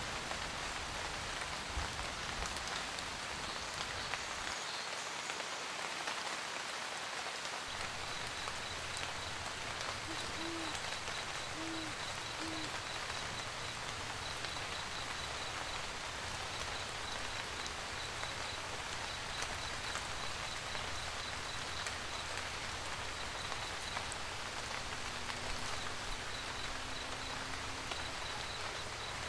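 Steady rain pattering on a roof, with an owl hooting three times about ten seconds in. A faint, high, rapidly repeating chirp runs through the rain from about eight seconds on.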